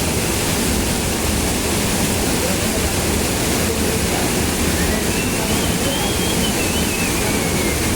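A waterfall's water pouring down over rock in a loud, steady rush. In the second half a faint high tone rises and falls above it.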